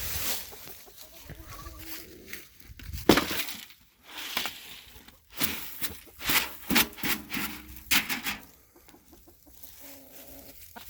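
Chickens clucking softly while they feed on scattered corn and oats, with several sharp rustles and knocks, the loudest about three seconds in.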